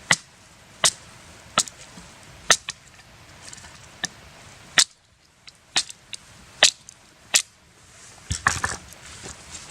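Knife chopping into wood: a run of sharp knocks about once every second, with a quicker cluster of strikes near the end.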